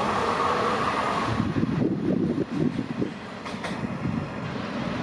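Passenger coaches of an express train rolling past on the rails, with wheel-on-rail noise and a steady ringing tone that drops away about a second and a half in. An uneven lower rumble continues as the train recedes, with a couple of light clicks.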